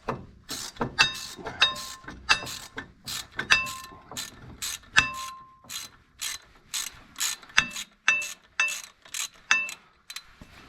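Allen key working a set screw in a steel drive-pulley hub: a series of sharp metallic clicks, about two a second, some with a brief metallic ring, as the screw is tightened.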